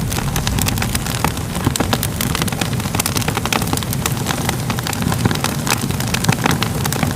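Crackling fire: a dense, irregular scatter of sharp crackles and pops over a steady low rumble of burning.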